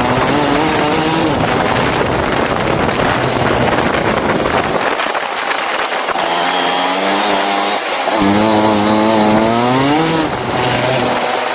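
Go-kart engine running hard. Its pitch climbs under acceleration twice and drops off just past ten seconds in.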